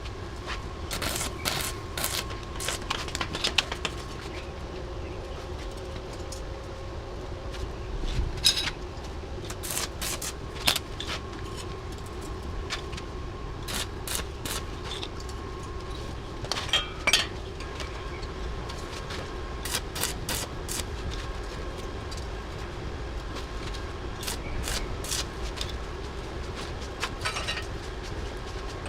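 Metal clinks, knocks and scrapes at irregular intervals, typical of hand tools working on metal parts, over a steady hum and low rumble.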